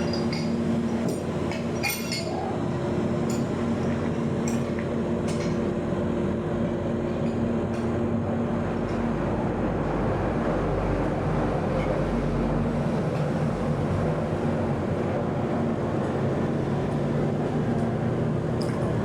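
A steady low rumbling hum, with a few light metallic clinks in the first five seconds.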